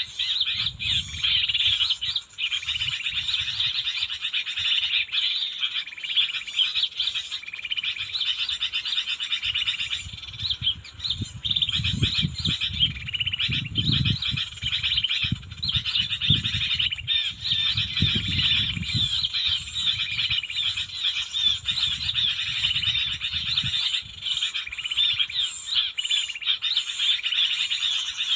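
Small birds chirping over a dense, steady chorus of calling frogs or insects. Low rumbling thumps come and go through the middle.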